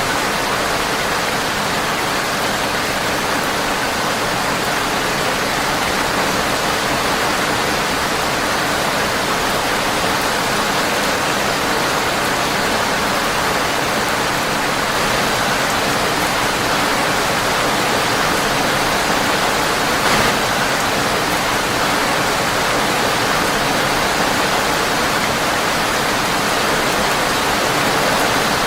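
Steady, even rain tapping on a windowpane, with one brief click about twenty seconds in.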